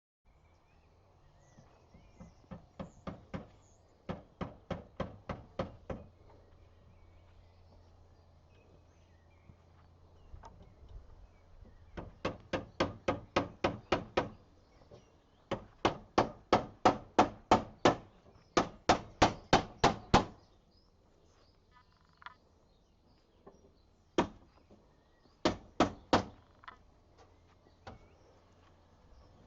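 Runs of sharp, evenly spaced knocks, about four a second, in groups lasting a few seconds with pauses between, the loudest run near the middle.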